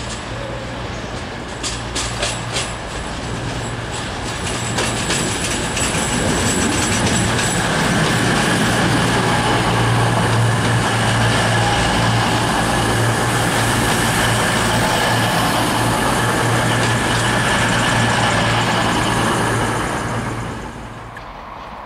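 CrossCountry Voyager diesel multiple unit running past along the platform: a steady diesel hum from its underfloor engines and wheel noise on the track. A run of sharp clicks comes as it approaches, and it grows louder as the carriages draw alongside. The sound falls away sharply near the end.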